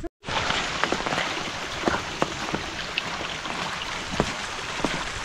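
Steady rain falling, an even hiss with scattered louder drops striking nearby surfaces; it starts abruptly just after a momentary silence.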